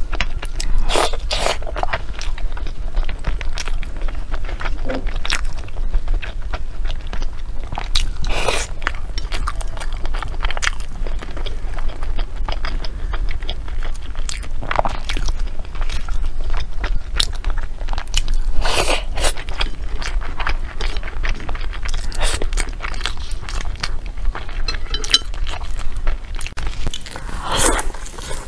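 Close-miked eating: chewing of a sauce-soaked glutinous rice dumpling (zongzi) with meat filling, heard as a steady run of small mouth clicks and smacks, with louder bites every few seconds. Near the end comes a bite into a different, fried food.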